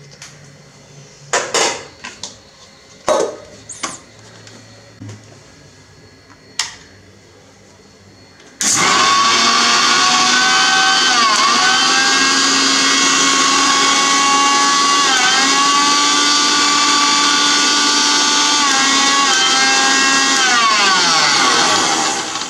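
A few separate knocks, then about eight and a half seconds in an electric mixer grinder motor starts and runs loud and steady, grinding a small load of leaves. Its whine dips briefly three times, and it winds down near the end.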